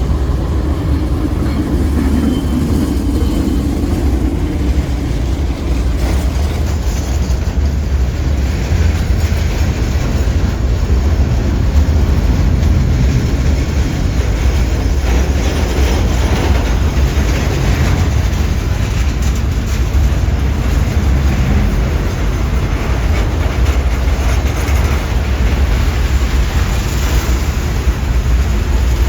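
Container wagons of a diesel freight train rolling past on the track, a steady low rumble of wheels on rail.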